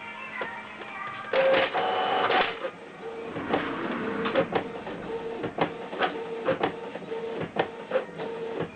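Canon Pixma MG2470 inkjet printer printing a page. The motors whir loudly for about a second near the start as the paper feeds, then the print carriage shuttles back and forth with a hum and a click about every half second.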